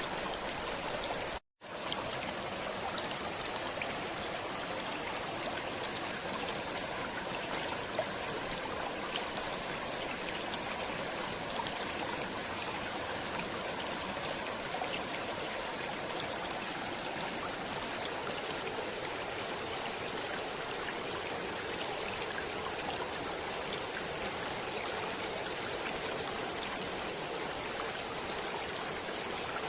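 Stream water flowing, a steady rushing babble with fine trickling. The sound drops out completely for a split second about a second and a half in, then resumes unchanged.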